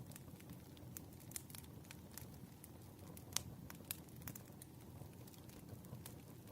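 Wood fire crackling: irregular sharp pops and snaps over a low, steady rumble of burning logs, with one louder pop about three and a half seconds in.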